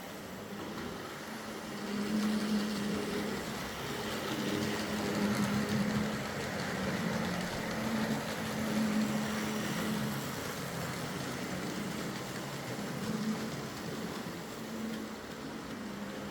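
Hornby OO gauge Class 35 Hymek model diesel locomotive running along the track, its DC motor humming steadily over wheel and rail noise, the hum swelling and fading as it goes. It runs fine on a new set of motor brushes and a new brush clip.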